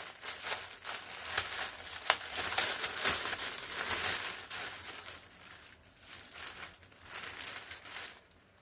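Packaging being handled and opened: irregular crinkling and rustling, busiest in the first few seconds and dying away near the end.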